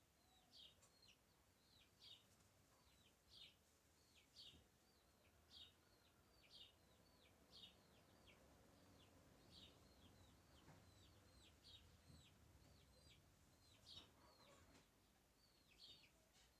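Faint bird calls: short, high, downward-slurred chirps repeated about once a second.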